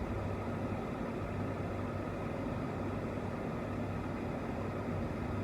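Car engine idling with a steady low hum and hiss, heard from inside the car.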